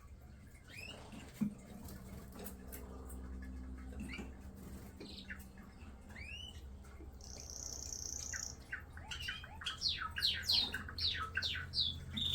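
Birds chirping and squawking in short, high calls that sweep up and down, scattered at first and coming thick and fast in the last few seconds, over a low steady hum.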